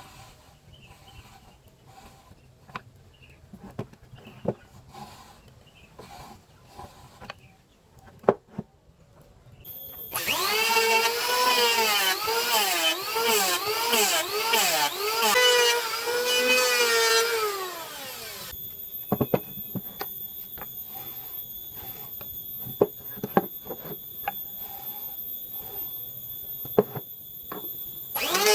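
Electric power tool working wood. Scattered light knocks come first, then a loud motor whine whose pitch dips and rises over and over as it bears into the wood for about eight seconds. After that comes a quieter steady high whine with occasional sharp knocks.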